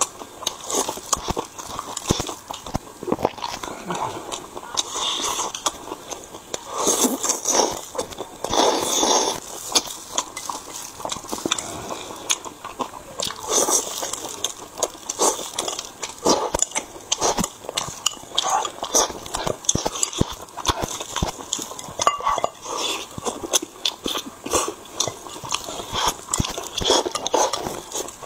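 Close-miked chewing of pork, with quick irregular mouth clicks and short smacking noises.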